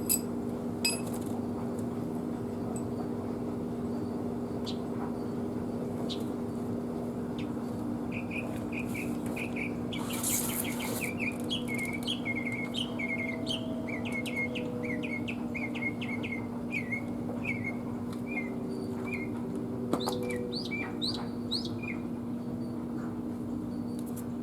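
Small bird chirping in a long run of short, quick, falling calls, over a steady low hum. A few sharp clicks and a brief hiss about ten seconds in.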